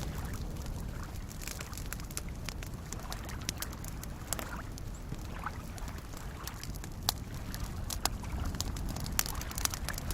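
Wood campfire crackling with scattered sharp pops, several close together in the second half, over a steady low wash of small lake waves lapping.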